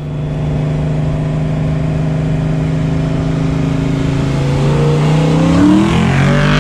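1986 Ford Mustang GT's 5.0-litre V8 running at a steady cruise, then climbing in pitch as it accelerates past near the end.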